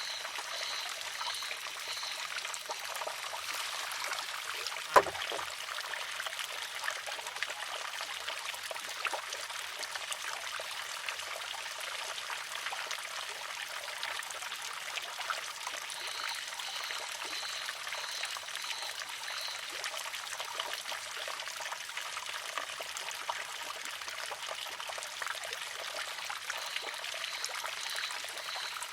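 Water trickling steadily into a wooden shishi-odoshi. About five seconds in, its pivoting arm tips and strikes the rock with a single sharp clack.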